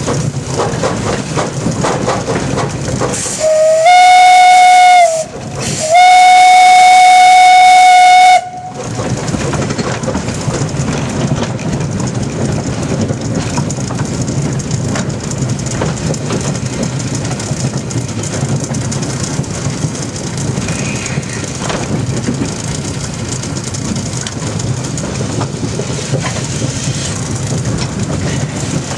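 A 1927 Vulcan steam locomotive running steadily. About four seconds in, its steam whistle gives two very loud blasts, a short one and then a longer one, drowning out the running noise.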